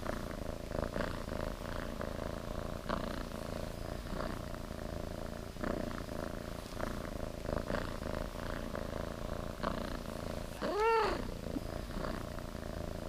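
Mountain bike rolling along a gravel forest track: irregular crunching of tyres on gravel over a steady hum. About eleven seconds in, a short squeal rises and falls in pitch.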